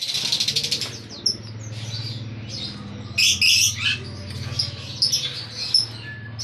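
Many caged songbirds chirping and calling together, with a fast trill in the first second and a louder, harsher call about three seconds in. A steady low hum runs underneath.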